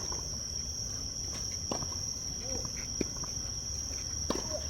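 Crickets or other insects chirring steadily in one high-pitched drone. Over it come several sharp knocks, about a second and a half apart, which fit a tennis ball being struck by racquets in a rally.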